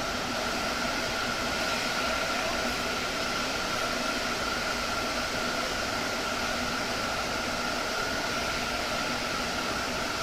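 Steady, fan-like machine whir and hiss with a constant high whine.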